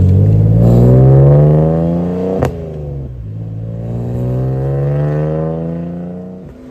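BMW M54B30 3.0-litre inline-six through an ISR exhaust with aftermarket headers, accelerating hard: the pitch climbs, a sharp crack comes at a gear change about two and a half seconds in, and the pitch climbs again in the next gear before the driver lifts off near the end. The sound grows fainter through the pull.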